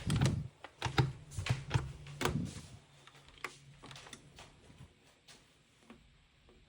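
Clicks and knocks of hands working on a washing machine, coming quickly in the first few seconds and thinning out toward the end, over a low hum that stops about two and a half seconds in.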